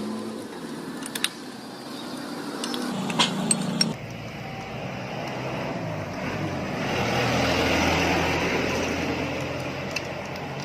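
A few light metallic clinks from hand tools on the engine in the first few seconds, then a passing motor vehicle whose noise swells to a peak about eight seconds in and fades again.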